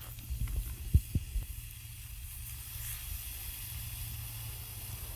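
Oil sizzling and burning off a hot camp barbecue plate over a campfire, a steady hiss while the plate is being seasoned. A few low thumps come in the first second and a half, the loudest about a second in.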